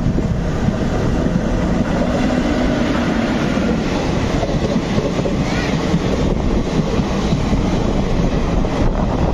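Two passenger trains crossing at speed on adjacent tracks, heard from the open door of one of them: a loud, steady rush of wind and wheels on rail as the oncoming train's coaches pass close alongside.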